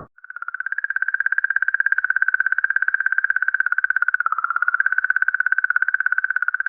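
Sonification of comet 67P's magnetic-field oscillations, sped up into hearing range: a steady high tone pulsing rapidly and evenly, heard as rhythmic clicking.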